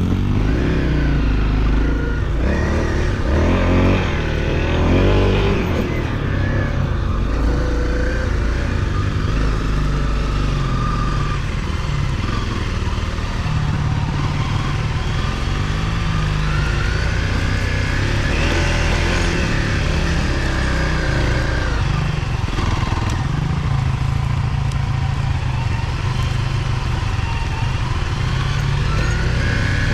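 Off-road motorcycle engine running, its pitch rising and falling as the throttle is worked, with a rise near the end.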